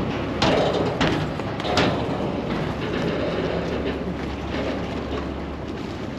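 River ferry's engine running steadily, with a few knocks and clatters in the first two seconds.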